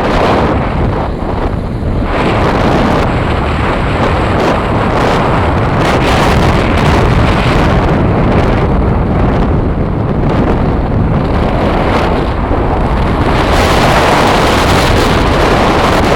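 Loud, steady wind buffeting the microphone on a moving motorbike, swelling and easing slightly, with no clear engine note.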